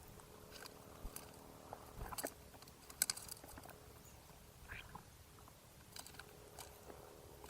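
Small birds pecking and cracking seed at a backyard feeder close to the microphone: scattered sharp taps and crunches, the loudest about three seconds in, over a faint steady hum.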